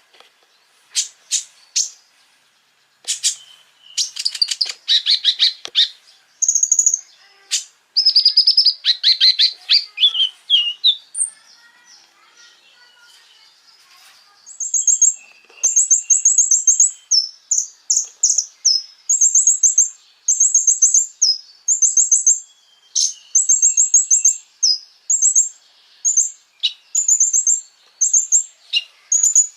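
Common iora (konin) singing. It starts with varied chirps and fast rattling trills, then from about halfway gives a long series of short, high, repeated notes in quick phrases, about one phrase a second.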